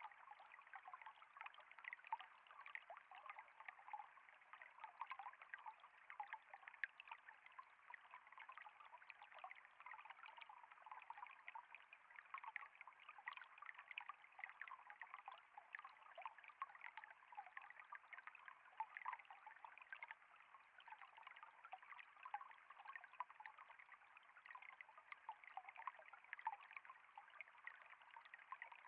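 Faint, steady trickling of flowing water, a continuous babble dotted with many small splashes.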